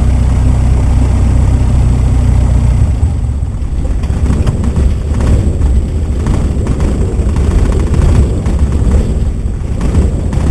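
Cessna 172's piston engine and propeller running, heard from inside the aircraft. The steady low drone gives way about three seconds in to a rougher, more uneven rumble.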